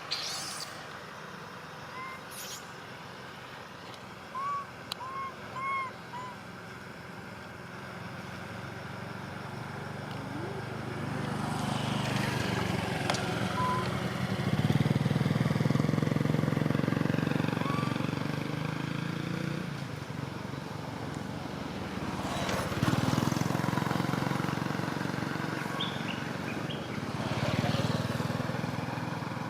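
Motor vehicles passing along a road, their sound swelling and fading three times, loudest about halfway through. A few short chirps come in the first six seconds.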